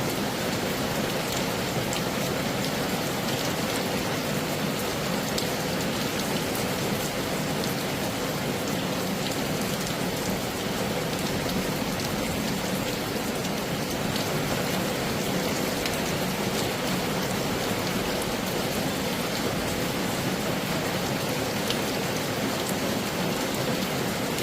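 Heavy rain falling steadily: a dense, even hiss with scattered individual drops ticking through it.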